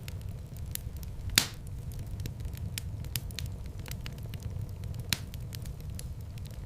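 Wood fire crackling in a fireplace: a steady low rumble of flames under frequent small sharp crackles, with a loud pop about a second and a half in and another near five seconds.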